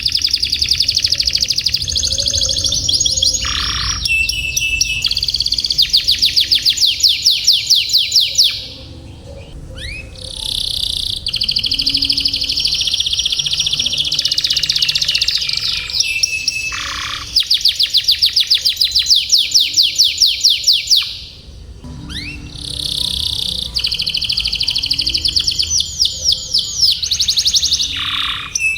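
Domestic canary singing long rolling trills of rapid repeated notes, changing from one trill to the next, with brief pauses about a third of the way in and again near three quarters through.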